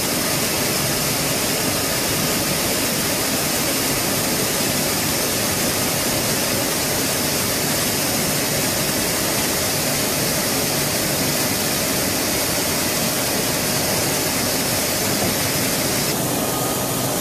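Mazak Integrex CNC lathe running, a steady hiss-like noise with no rhythm; its tone shifts slightly near the end.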